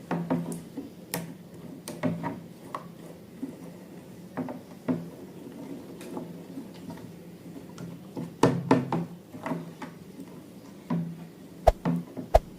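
Irregular light clicks and taps of slime-making materials and balloons being handled on a tabletop, over a steady low hum, with a burst of louder knocks about two-thirds of the way in and two sharp knocks near the end.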